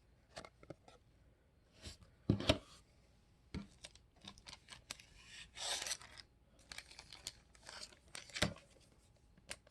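Trading cards and their foil pack wrappers being handled: scattered light clicks and crinkling, with a short tearing rustle a little past halfway.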